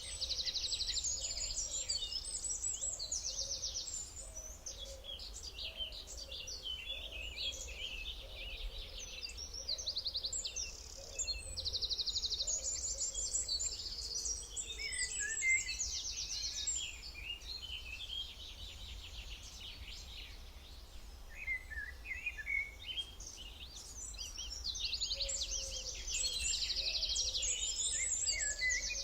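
A chorus of several songbirds singing at once, dense overlapping chirps and fast trills, over a faint steady low rumble. The singing thins out about two-thirds through and grows dense again near the end.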